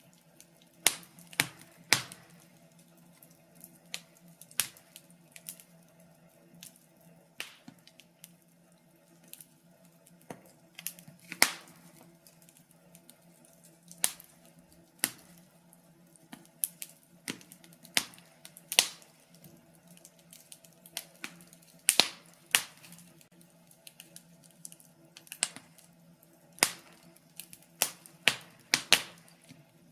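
Fire crackling in a fireplace: irregular sharp pops and snaps, a few every couple of seconds, over a faint steady low hum.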